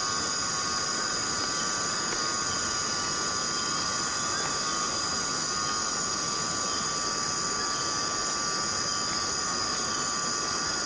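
Steady rain in a tropical rainforest, with a constant chorus of insects holding several high, unbroken tones over the even hiss of the rainfall.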